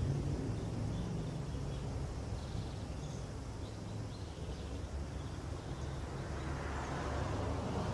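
Outdoor background: a steady low rumble with faint bird chirps, and a hiss that swells near the end.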